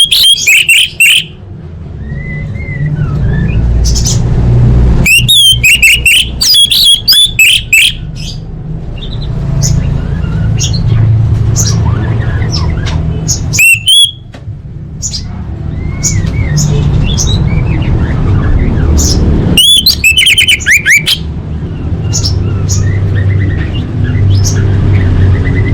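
Orange-headed thrush singing in rapid bursts of high, fast-swooping notes, packed phrases about five to six seconds apart with scattered single notes between, over a steady low rumble.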